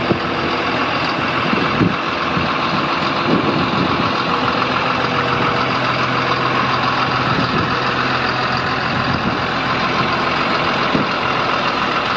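Caterpillar D6N LGP crawler dozer's diesel engine running at a steady speed, an even idle-like drone with no change in pitch or level.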